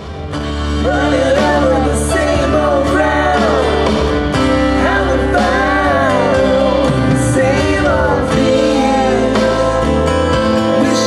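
A voice singing a melody, with glides and held notes, over instrumental accompaniment with a steady bass.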